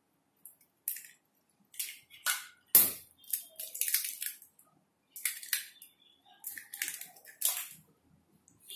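Eggs being cracked against a bowl and their shells broken open: an irregular string of short, sharp cracks and taps, with one louder knock about three seconds in.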